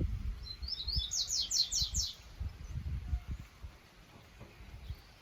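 A small songbird sings one short phrase of about six quick, high notes, about a second in and lasting about a second. Low rumbling thumps run underneath through the first half.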